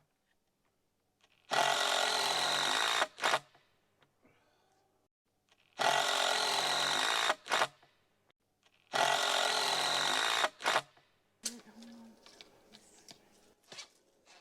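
Power drill driving screws into wooden framing: three runs of about a second and a half each, each ended by a short extra pulse of the trigger. Lighter clicks and knocks of handling follow near the end.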